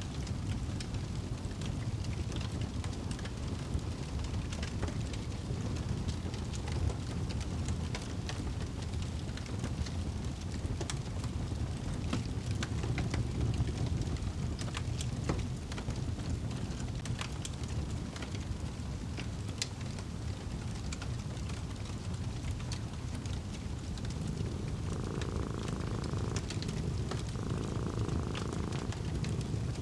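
Fireplace burning, a steady low rumble with scattered sharp crackles and pops. Near the end a cat purrs in three separate stretches, each a second or two long.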